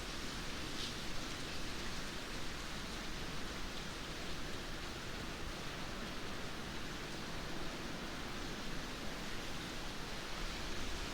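Steady rain, an even hiss with no distinct thunder. There is a faint tick of a single drop about a second in.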